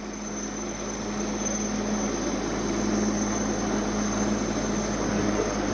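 Aircraft engine noise as an aircraft flies low overhead: a steady drone with a low held hum that grows louder over the first two seconds, then holds.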